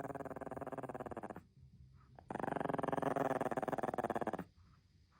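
A dog growling in long, drawn-out rumbling growls, two in a row with short pauses between them.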